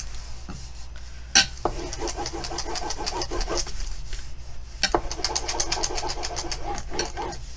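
Fast, rhythmic scraping of a hand tool rubbed back and forth over the plastic cover film of a diamond-painting canvas, pressing out trapped air bubbles. It comes in two runs of a couple of seconds each, and each run starts with a sharp knock.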